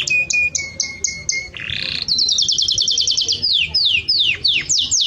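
A songbird singing a varied song. It starts with a run of short repeated notes, gives a brief harsh buzz about one and a half seconds in, then a fast trill, then a series of falling and then rising slurred notes.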